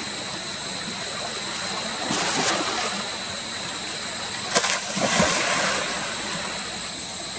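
Water splashing twice, briefly about two seconds in and again for about a second near the five-second mark, over a steady hiss with a thin, steady high-pitched tone.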